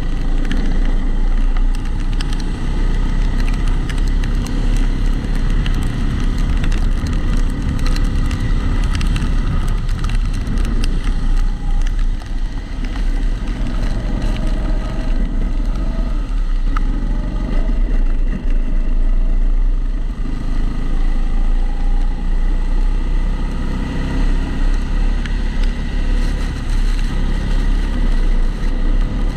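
Kombikart Eco rental kart's engine heard onboard, its pitch rising and falling with the throttle. Over it runs a steady clicking rattle that comes from the camera in its housing.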